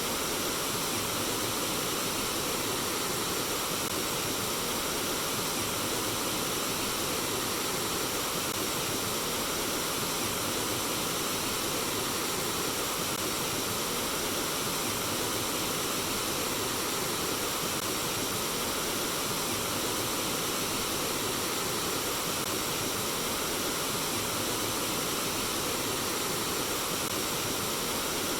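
Flowing water running steadily, an even rushing with no breaks or changes.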